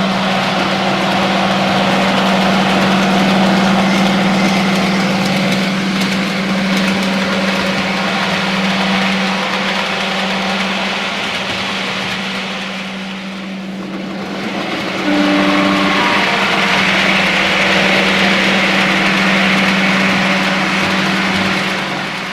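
Model train running on the layout: a steady electric hum over a rushing, rolling noise of wheels on track. About 15 seconds in, a short horn sounds.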